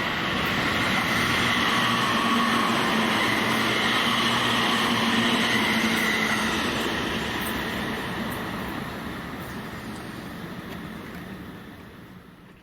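Electric train running past on the main-line tracks, its rolling noise and a steady whine building over the first couple of seconds, holding, then fading away through the second half.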